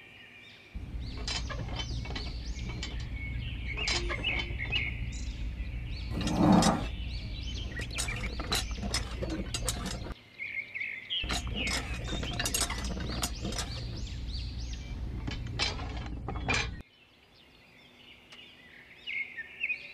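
Small clicks, rattles and knocks of a miniature model tractor and its tine implement being handled and hitched together by hand, with one louder thump a few seconds in, over a steady low rumble that stops near the end. Birds chirp now and then.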